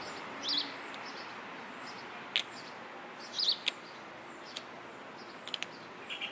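Songbirds chirping twice over a steady outdoor hiss, with a few faint sharp ticks in between.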